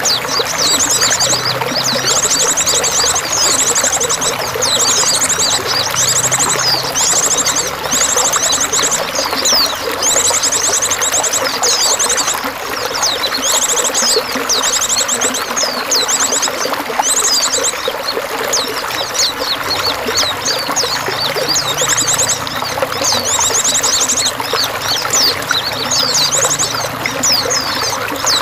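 Water trickling and pouring steadily, with small songbirds singing over it in high chirps and short, very fast trills repeated every second or so.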